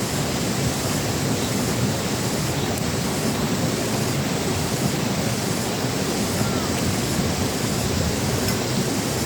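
Steady rushing noise at an even level, heaviest in the low range, with no clear events in it.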